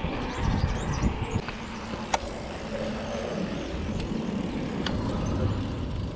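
Wind buffeting and road noise while riding a mountain bike: a steady, uneven rumble, with a few faint sharp clicks.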